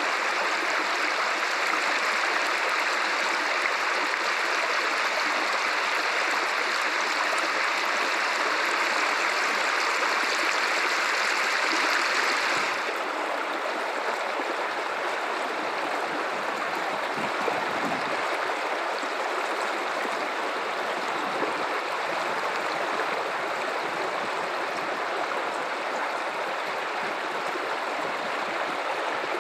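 Guadalupe River water running in a steady rush. About 13 seconds in, the bright hiss drops away suddenly and the flow continues softer and lower.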